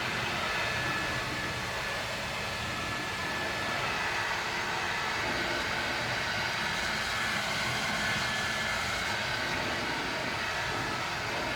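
Ryobi 2000 psi power washer running steadily, its motor whine under the hiss of the water spray.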